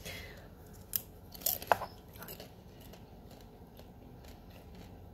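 A piece of buttered popcorn with cheese being bitten and chewed. There are a few sharp crunches about a second in, then quieter, fairly regular chewing.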